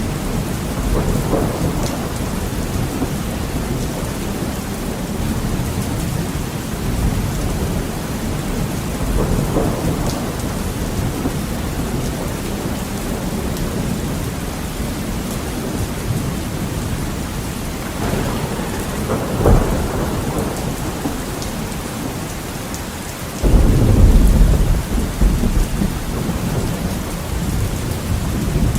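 Heavy rain pattering steadily on a window, with distant thunder rolling in low rumbles. Near the end a sudden, louder thunderclap breaks in and rumbles on for a few seconds.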